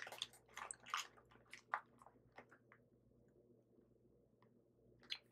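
Faint chewing of a sour gummy candy: a scatter of soft, short clicks over the first two and a half seconds, then near silence.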